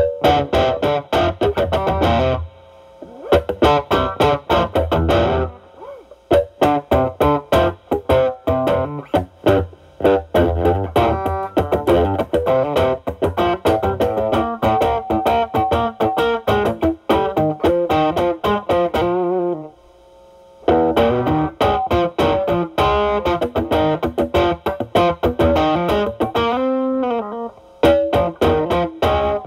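Electric guitar, a Stratocaster with single-coil pickups, played through a Ceriatone Centura Klon-clone overdrive pedal into a Marshall Valvestate amp's drive channel. It plays picked lead phrases with short breaks between them, the longest about two-thirds of the way through, and a bent, wavering note near the end.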